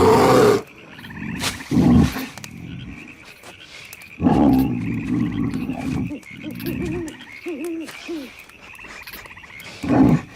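Night ambience: a steady frog chorus trilling throughout, broken by several louder low sounds, one at the start, one about two seconds in, a longer one from about four to six seconds, and another near the end.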